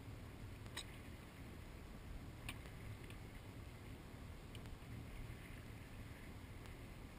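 Faint, steady low rumble of a watercraft engine, with a few sharp clicks about 1, 2.5 and 3 seconds in.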